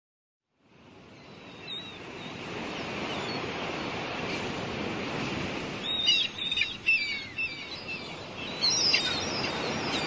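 Birds chirping over a steady rushing background that fades in over the first couple of seconds. The quick, sliding chirps come in a cluster about six to seven seconds in and again near the end.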